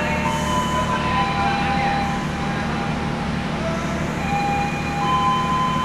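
Diesel locomotive idling with a steady low drone, while short high steady tones come and go above it.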